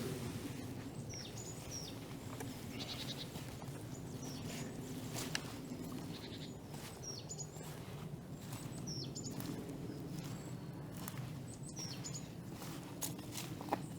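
Many small birds giving short, high chirps and trills again and again over a steady low background noise. A few sharp clicks cut through, one about five seconds in and one near the end.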